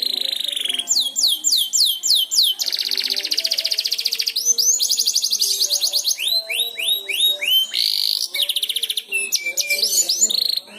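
Domestic canary singing a long, continuous song of rapid trills and runs of repeated downward-sweeping notes, switching phrase every second or so.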